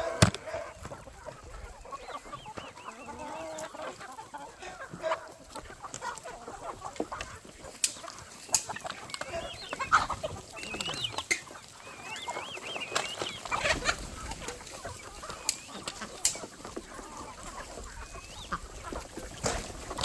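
A flock of chickens clucking and calling, with scattered sharp clicks and knocks and one strong knock right at the start.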